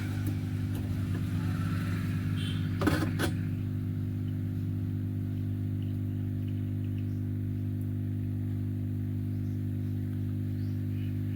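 Hot-air SMD rework station's blower running steadily on a low air setting with a low hum, heating a TV board's sound IC to melt its solder. Two sharp clicks come close together about three seconds in.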